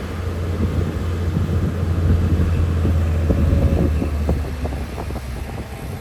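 Heavy diesel earthmoving machinery running with a low, steady drone and scattered knocks, easing off a little after about four seconds.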